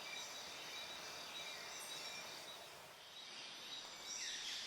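Rainforest ambience: a steady high hiss with birds calling, and a few short falling chirps near the end.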